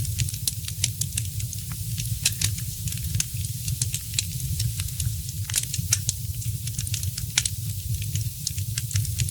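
Wood fire crackling, with frequent sharp, irregular pops and snaps over a steady low rumble.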